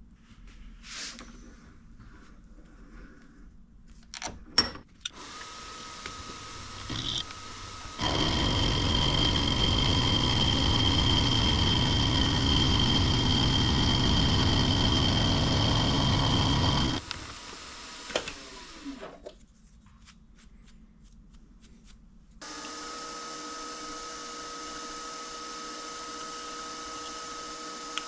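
Small machine tool's motor running with a steady whine, much louder and harsher for about nine seconds in the middle, then dropping away and starting up again near the end. A few clicks and knocks come just before it starts.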